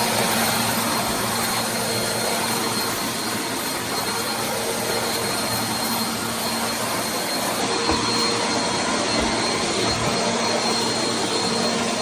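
Bissell CleanView Compact upright vacuum cleaner running steadily, a dense rushing noise with a steady low hum and a thin high whine.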